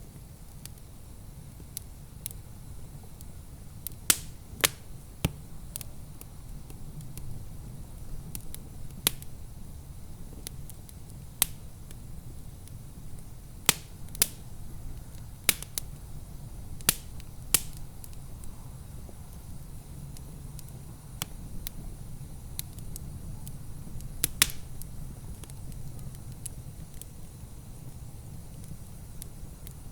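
Wood fire in a fireplace crackling, with sharp pops at irregular intervals, the louder ones a few seconds apart, over a low steady rumble.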